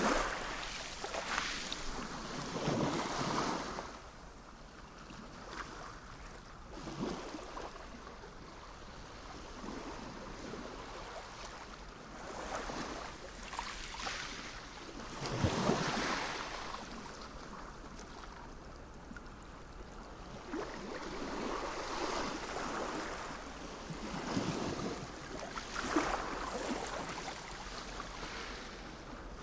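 Sea waves washing in, swelling and fading every few seconds, with the biggest surge about halfway through, over a steady low rumble.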